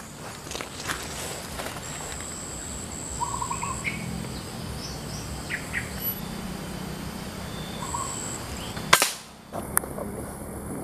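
Outdoor ambience with a few short bird chirps and trills and a faint high steady buzz that comes and goes. Near the end there is one sharp, loud click or crack.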